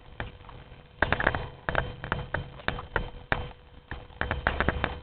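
Irregular crunching footsteps over dry ground and dead vegetation, starting about a second in, with short crackles and low thuds at an uneven pace.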